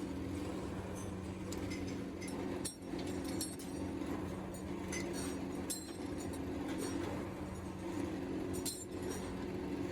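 Steady hum of running workshop machinery with irregular light metal clinks over it, a few to the second at most.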